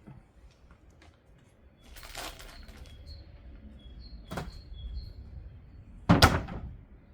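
Handling noises: a short rustle, then a sharp click, then a louder rustle with a thump near the end. Birds chirp faintly in the background.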